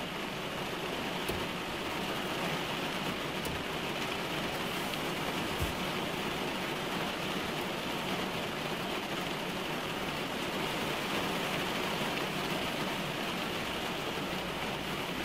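Heavy rain drumming on a car's roof and windshield, heard from inside the cabin: a steady hiss with scattered sharper drop taps, one louder tap about five and a half seconds in.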